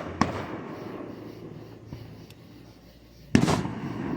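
Fireworks going off: a sharp bang just after the start and a louder bang a bit over three seconds in, each followed by a rumbling echo that dies away.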